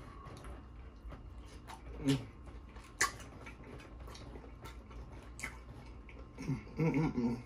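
Close-miked chewing and wet mouth sounds of a person eating, with scattered lip smacks and clicks and a sharper click about three seconds in. A short closed-mouth hum comes near the end.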